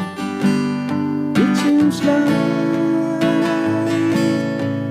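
Acoustic guitar strumming sustained chords as the accompaniment to a slow song, between sung lines.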